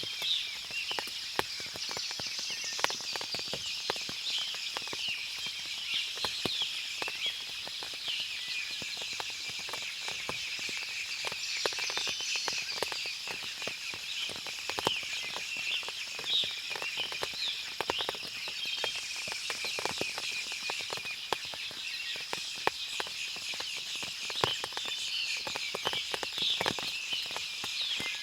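Forest ambience after rain: many small birds chirping over a steady high insect buzz, with scattered sharp drips and ticks throughout.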